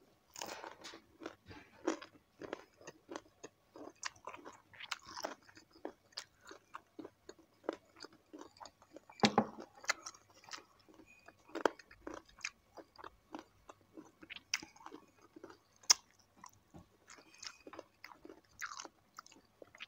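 Close-miked chewing and crunching of crispy deep-fried chicken feet: irregular crisp crackles and wet mouth sounds, with the loudest crunch about nine seconds in.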